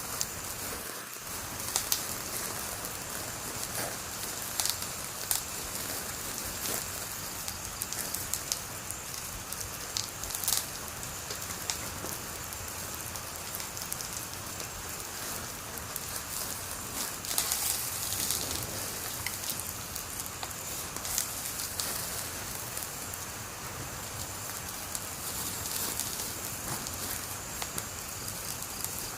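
Wood fire burning with a steady hiss and irregular crackles and pops.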